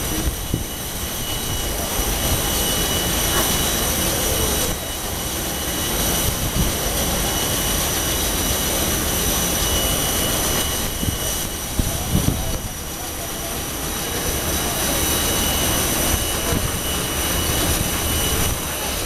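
Airbus A320 jet engines running: a steady high whine made of several held tones over a dense rumble with scattered knocks, dipping a little in level about two-thirds of the way through.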